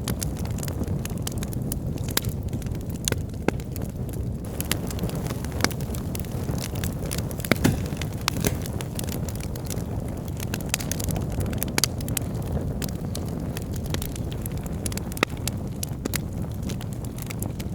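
Wood logs burning in a fireplace: a steady low rumble of flames with frequent sharp crackles and pops, the loudest few bunched together about seven and a half seconds in.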